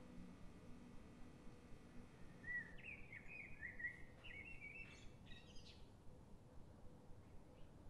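Faint birdsong: a quick run of chirps from about two and a half to four seconds in, and a few more around five seconds, over quiet steady background noise.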